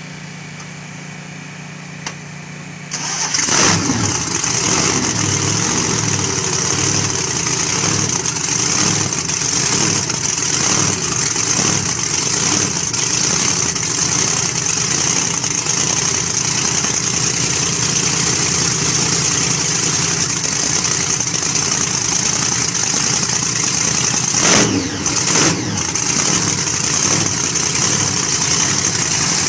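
Supercharged V8 in a 1930s pickup hot rod firing up about three seconds in after a low steady hum, then idling loud and lumpy. It is briefly revved twice near the end.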